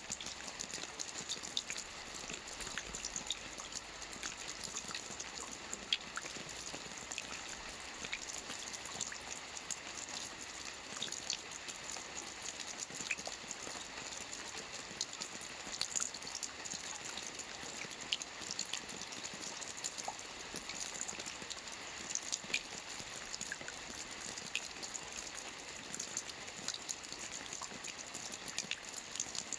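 Soft rain falling on a roof: a steady hiss with many scattered individual drops ticking.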